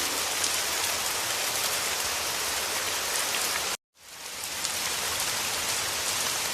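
Heavy rain falling steadily as an even hiss. A little under four seconds in it cuts out completely for a moment, then fades back in.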